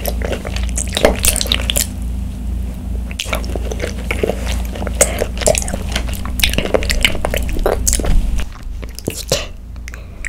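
Close-miked chewing of chewy tapioca pearls from bubble tea sipped through a wide straw: wet squishing, smacking and clicking mouth sounds, thinning out near the end.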